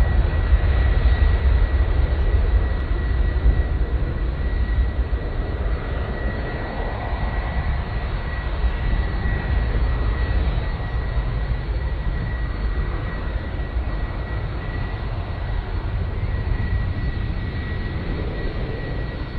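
Airliner engines running: a steady low rumble that slowly fades.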